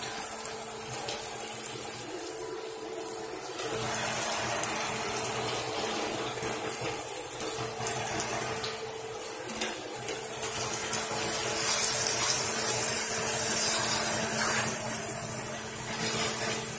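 Bacon and chopped onions sizzling in a frying pan as they are stirred, with a steady low hum underneath.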